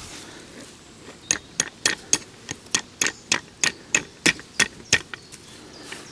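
A tent stake being hammered into the ground: a run of about fifteen sharp strikes, roughly three a second, starting about a second in and stopping about five seconds in.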